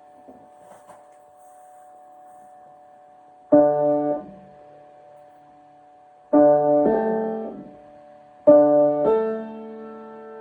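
Piano chords played slowly with pauses between them: a faint held note at first, then a chord struck about three and a half seconds in, another near six seconds, and two more in quick succession near the end, each left to ring and fade.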